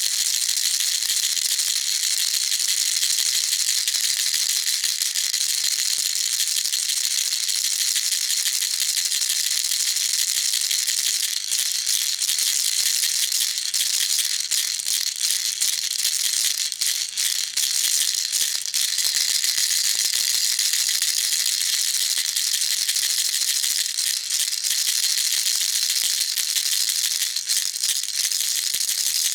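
Baby rattle shaken without a break, making a dense, steady rattle of many fine clicks.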